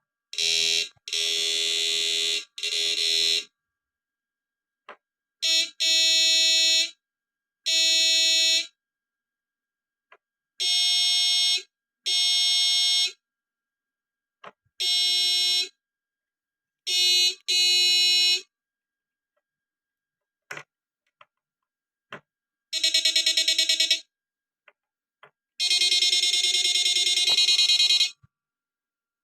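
Small electrofishing inverter buzzing as it is switched on and off: about a dozen bursts of a steady, high-pitched electronic buzz, each half a second to two seconds long, separated by short silences and faint clicks.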